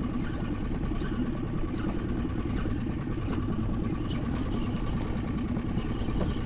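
Small boat's engine idling steadily, with a low, fast-pulsing rumble.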